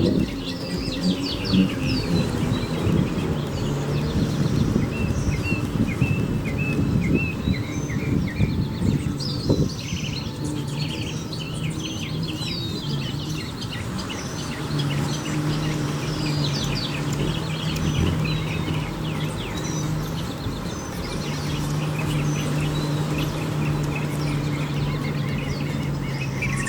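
Gulls calling, many short overlapping cries, often falling in pitch. From about halfway through, a steady low hum runs underneath.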